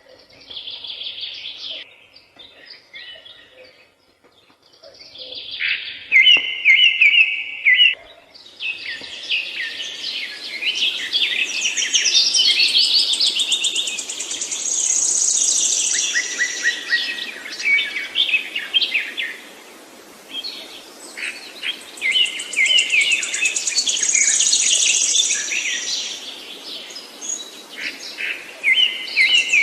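Several songbirds chirping and singing, with scattered calls at first and a dense, overlapping chorus of rapid chirps and trills from about eight seconds in, over a steady low background hiss.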